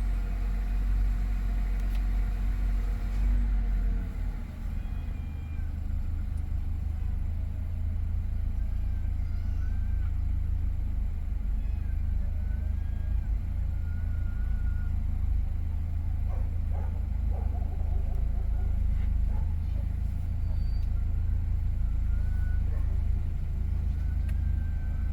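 Nissan Qashqai 1.3-litre turbo petrol four-cylinder idling steadily after a cold start, a deep continuous rumble whose tone shifts and drops slightly about four seconds in. The owner asks whether this idle sound is normal.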